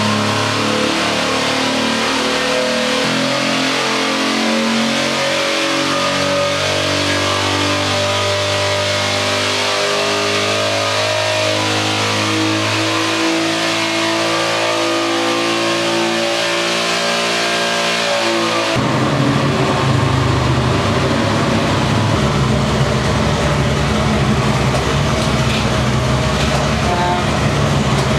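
Big-block V8 running on an engine dyno, its pitch stepping up and holding at each step. About two-thirds of the way through the sound changes abruptly to a louder, rougher run.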